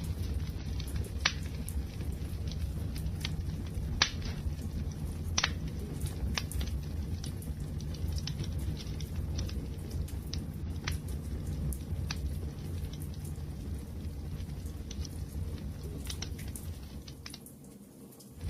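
Wood fire burning with a steady low rumble and scattered sharp crackles and pops, the loudest about four seconds in. It dies down briefly near the end.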